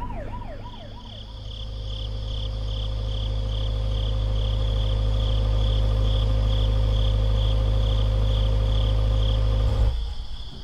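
A wailing siren dies away in the first second or so. A car engine then runs with a loud, steady low hum until it cuts off abruptly near the end. Crickets chirp in an even pulse, about three chirps a second.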